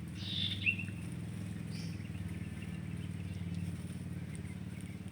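A motor engine running steadily at idle, with a bird's short chirp falling in pitch about half a second in and a fainter high note a little later.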